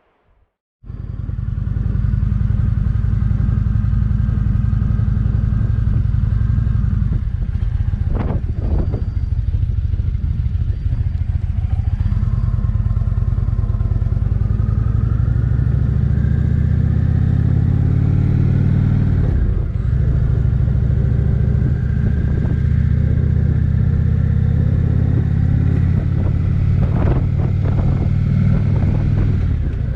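Indian Springfield motorcycle's V-twin engine running under way, starting about a second in. Its pitch climbs steadily, drops sharply about two-thirds through, then holds steady.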